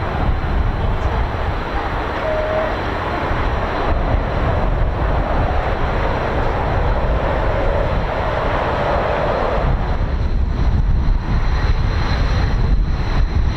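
Strong wind buffeting the microphone, a heavy low rumble under a steady rushing noise that eases about ten seconds in.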